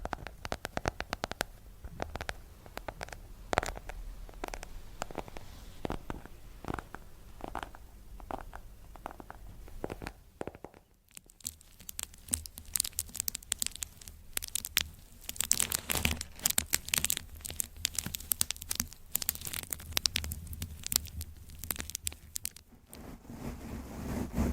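Close-miked ASMR trigger sounds: quick irregular taps, clicks and crinkly scratching. About eleven seconds in they pause briefly, then come back denser and brighter, like crackling or crumpling.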